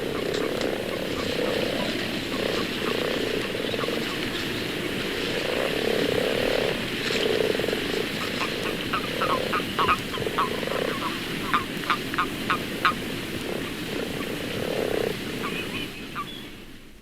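Common frogs croaking in a spring pool, a chorus of low croaks repeating throughout, with common toads piping short sharp high notes, most of them in a cluster around the middle. The chorus fades out near the end.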